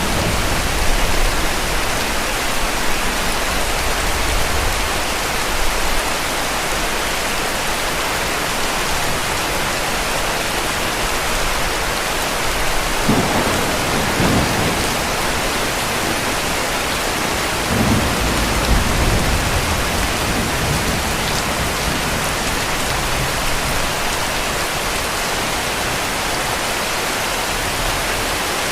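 Heavy rain falling steadily, with distant thunder rumbling low underneath: once at the start, again a little before halfway, and once more about two thirds of the way through.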